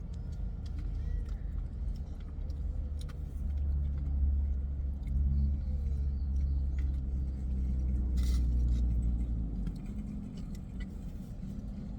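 Low, steady car engine rumble heard from inside a car, swelling about four seconds in and easing back near ten seconds, with a few faint clicks.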